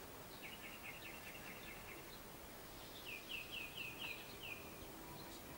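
A bird singing over faint outdoor background noise: a quick high trill of a dozen short notes, then, about three seconds in, a slower run of about seven high down-slurred notes.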